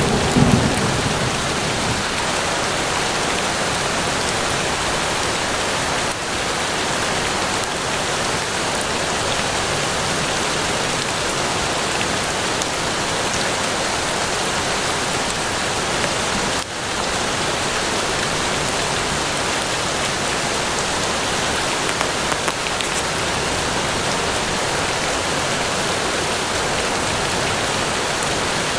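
Steady rain falling, an even hiss. The tail of a thunder rumble fades out in the first second.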